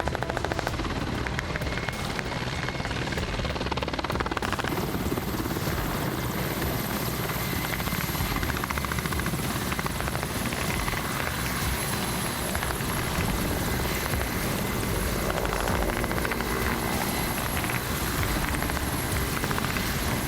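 Helicopter rotor and turbine engines running steadily, with a rapid rotor beat; a thin high whine comes in about four seconds in.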